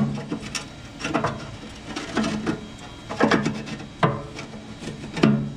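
Metal knocks and rattles of a gas grill's burner tubes being worked loose inside the firebox. There are about half a dozen sharp knocks about a second apart, each with a short low ring.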